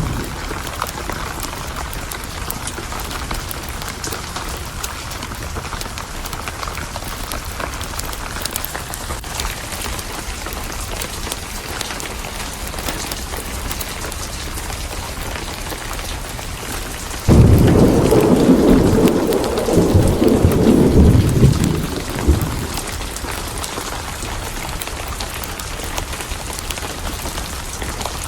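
Steady heavy rain with a loud roll of thunder that breaks in suddenly past the middle and rumbles for about five seconds before fading back into the rain.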